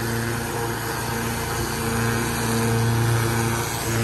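An engine running steadily at a constant speed, an even hum with no change in pitch.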